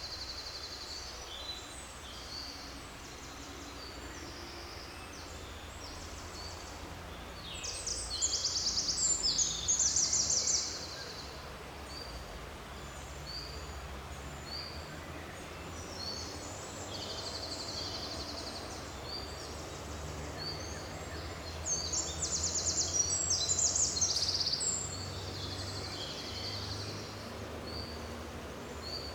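Forest birds singing: many short high chirps and calls, with two louder rapid trills, one about eight seconds in and one about twenty-two seconds in. A steady low rumble runs underneath.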